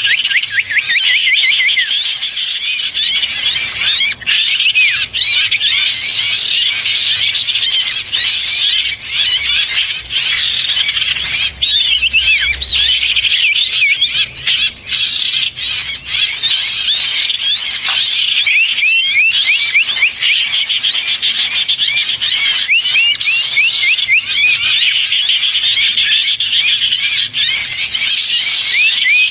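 Dense chorus of small songbirds chattering and twittering without pause, many quick high rising and falling chirps overlapping: a bird-lure recording used to call wild small birds in.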